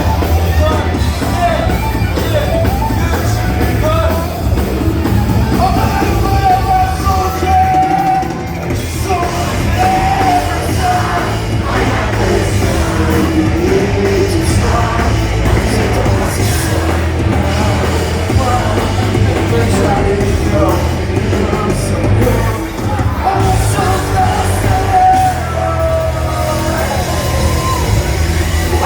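Live rock band playing a song, with a singer and shouted vocals over the band.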